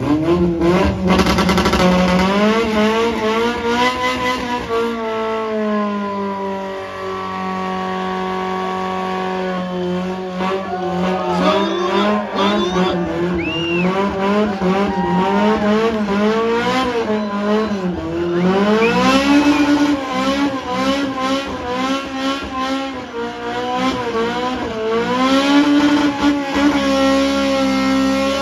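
Car engine revved hard at full power while the car is held against a block with one wheel spinning free. The revs climb and fall again and again, and are held steady for about four seconds a quarter of the way in.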